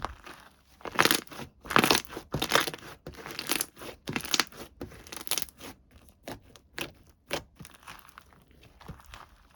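Crinkling and tearing handling noises of packaging from a slime box. Loud rustling bursts come over the first five seconds or so, then a run of sharper single crackles and clicks.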